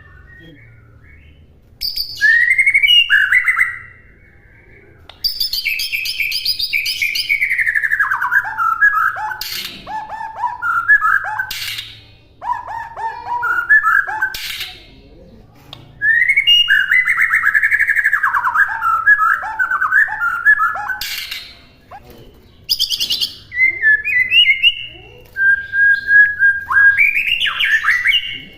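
White-rumped shama (murai batu) singing loud, varied phrases of rapid whistled and chattering notes, packed with imitations of other birds. The phrases come in bursts of two to six seconds with short pauses between them.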